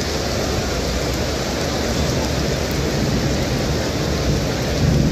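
Steady rain falling: an even hiss with a low rumble underneath that swells slightly near the end.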